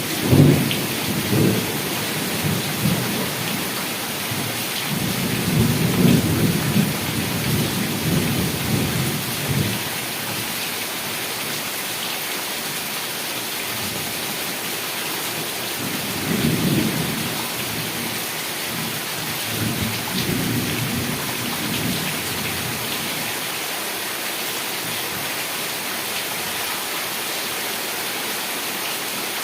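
Heavy rain falling steadily, with rolling rumbles of thunder near the start, again for several seconds in the first third, and twice more around the middle.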